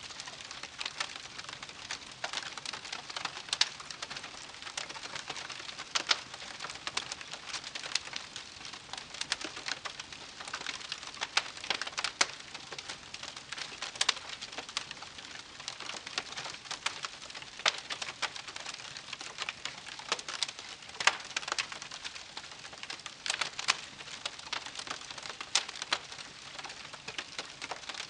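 Wood campfire crackling: many irregular sharp pops and snaps over a steady soft hiss of burning.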